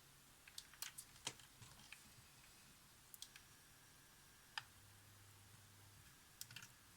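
Faint scattered clicks and taps of small metal tools and parts being handled during bench work on the camera. There is a cluster in the first two seconds, a single sharp click in the middle and another short cluster near the end, over near silence.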